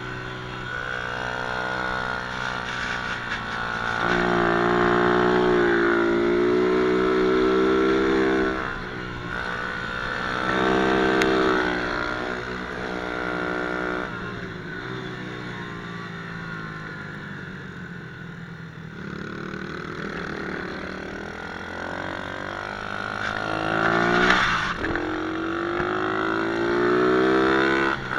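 Pit bike engine of an MRF 120cc revving up and easing off again and again as it is ridden, loudest from about four to eight seconds in, again around eleven seconds, and briefly near the end.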